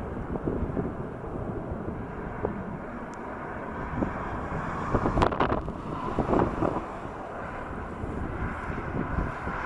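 Storm wind buffeting the microphone in uneven gusts over the rumble of a jet aircraft, with one sharp, louder gust a little past halfway.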